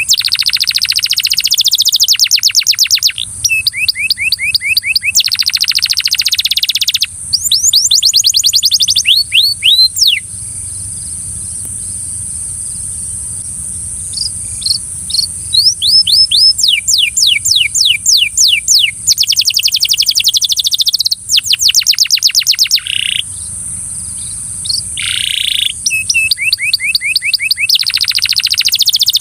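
Belgian canary singing a long song of fast trills: runs of rapidly repeated notes that change in speed and pitch from phrase to phrase, with a break of a few seconds about a third of the way in.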